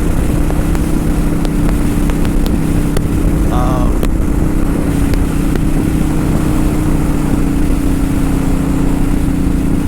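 Kawasaki Vulcan 900 Custom's V-twin engine running at a steady cruising speed, with a constant engine note over a heavy low rush of road and wind noise.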